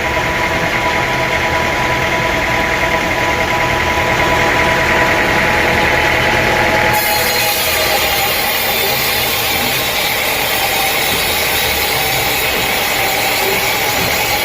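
Sawmill machinery running steadily, an engine-like drone with a few steady whining tones; about seven seconds in it suddenly turns brighter and hissier.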